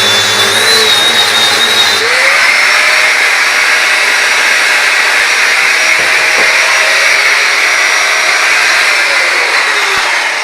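Electric angle grinder cutting through a steel door hinge, its motor whining steadily under load. About two seconds in it pauses and spins up again, and near the end its pitch falls as it winds down.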